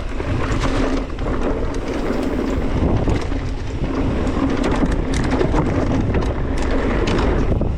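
Mountain bike descending a dirt trail: wind buffeting the helmet- or chest-mounted action camera's microphone, tyres running over dirt, and the bike rattling and clicking over bumps.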